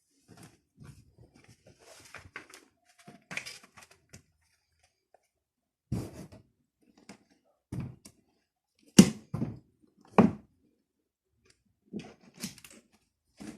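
Desk-top handling sounds: some light rustling, then a series of separate knocks and thuds as objects are picked up and set down on a table.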